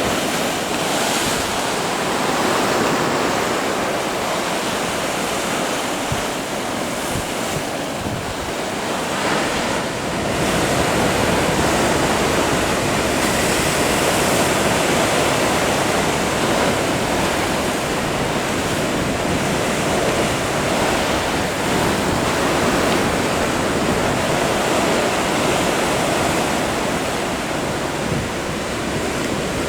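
Large ocean breakers crashing and surf washing steadily, with wind buffeting the microphone. The sound grows louder and fuller about ten seconds in.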